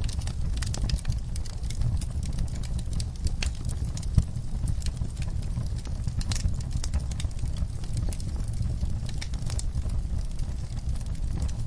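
Wood logs burning in a fireplace, crackling with many irregular sharp pops over a steady low rumble of the flames, one pop louder than the rest about four seconds in.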